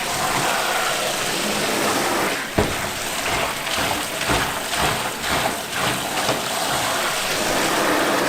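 Steady water running and splashing while scalded frogs are washed by hand in a basin, with irregular soft knocks of handling throughout. This is the washing step that rubs the white membrane off the frogs.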